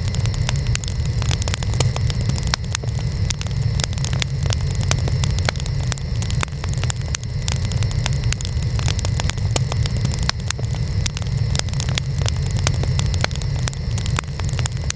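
Burning wood fire crackling, with frequent sharp irregular pops and snaps over a steady low rumble.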